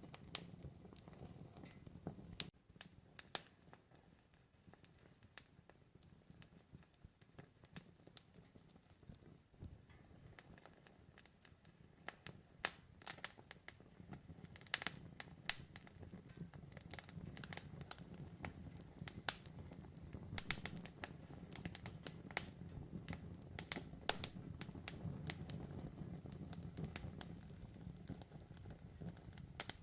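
Wood campfire crackling: sharp pops and snaps at irregular intervals over a low, steady rumble of the flames, the rumble stronger in the second half.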